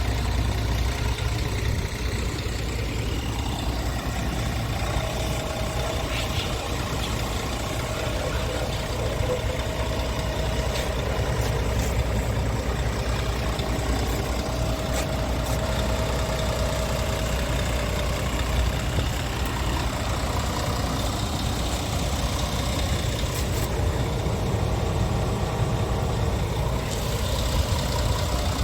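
2016 Scania R tractor unit's diesel engine idling steadily.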